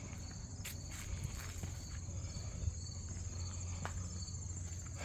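Insects chirping steadily in a high, pulsing trill over a low rumble, with a few light clicks.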